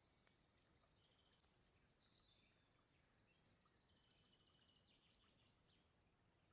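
Near silence with faint birdsong: repeated high chirps and short trills, and one tiny click about a third of a second in.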